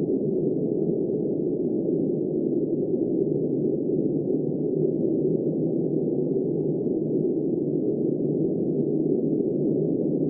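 Steady, muffled wind noise: an even low rush with no gusts, no rain hiss and nothing above a low pitch.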